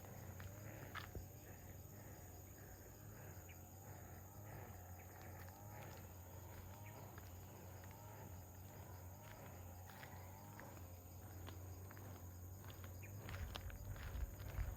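Faint footsteps of a person walking outdoors, with faint chirping calls; the steps grow louder near the end.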